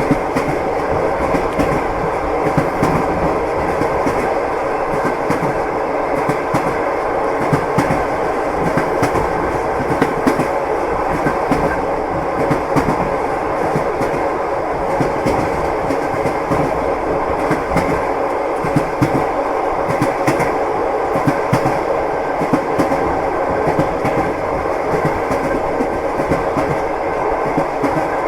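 Train wheels clattering over the rail joints in a steady clickety-clack, over the continuous running noise of the moving carriage.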